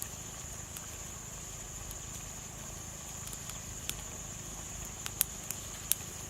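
A steady high chirring of insects, with a few scattered sharp clicks, the loudest a little after five seconds in and near six seconds.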